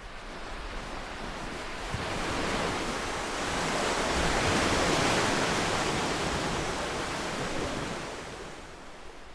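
One ocean wave breaking and washing up the shore: the surf swells over about two seconds, peaks around the middle, then fades away as it recedes.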